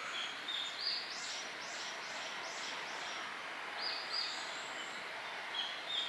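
A songbird singing outdoors: a couple of rising lead-in notes followed by a run of about five quick, high, arching notes, the phrase coming again twice more, over a steady background hiss.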